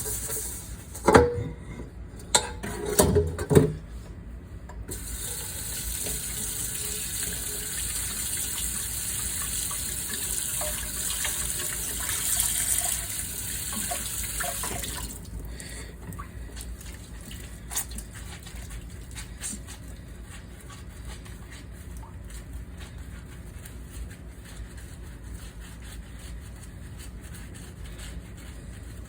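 Kitchen tap running into a sink during dishwashing, with a few clattering knocks of dishes or pans in the first few seconds. The water stops about halfway through, leaving quieter handling with scattered small clicks.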